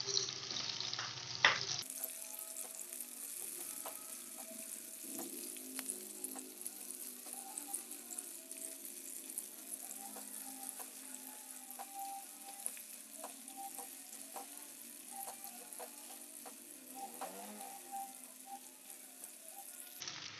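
Sliced shallots, garlic and red chilies sizzling in oil in a granite-coated wok, sautéed until fragrant, with a silicone spatula stirring and clicking against the pan many times.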